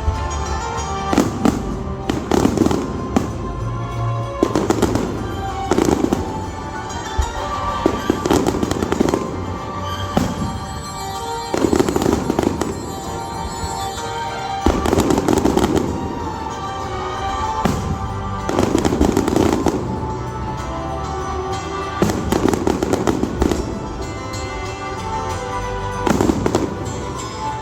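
Fireworks bursting in a rapid series, a loud burst every second or two, with music playing underneath throughout.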